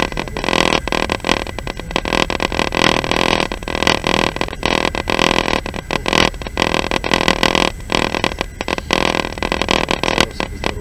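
Passenger train in motion: steady rolling and running noise heard from inside the carriage.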